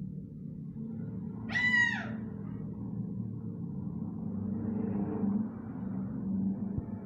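Eclectus parrot giving one short, loud call about a second and a half in that bends down in pitch at its end, over a steady low hum.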